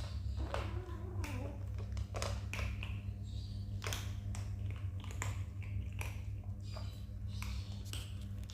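Kittens scrambling and eating as they compete for food: a busy run of small clicks and taps, with short high squeaky mews scattered through, over a steady low hum.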